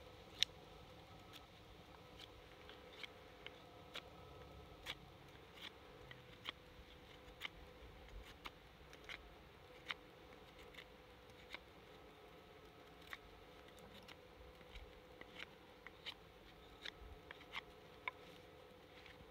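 Faint, irregular sharp clicks, about one or two a second, from a blade carving a split-wood tent peg by hand.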